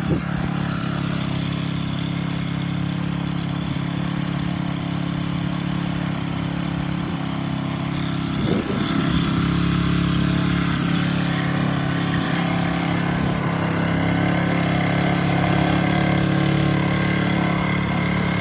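Small pit bike engine idling steadily. About halfway through there is a brief rise and fall in pitch, after which it runs a little louder.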